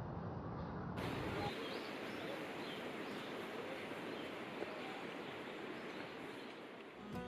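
Steady outdoor background hiss, with a few faint high chirps in the first few seconds; the sound shifts about a second in, and the low rumble drops away.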